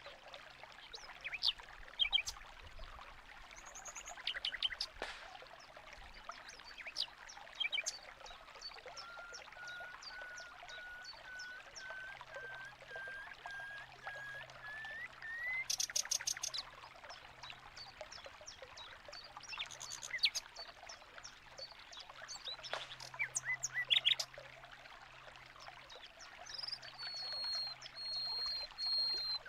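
Steady running water with many birds chirping and calling in an aviary. About eight seconds in, one bird gives a run of repeated notes that climb in pitch, and near the end one holds a high whistle.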